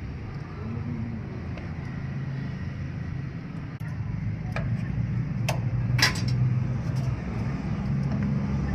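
A low engine rumble runs steadily, with a handful of sharp metallic clinks, the loudest about two-thirds of the way through.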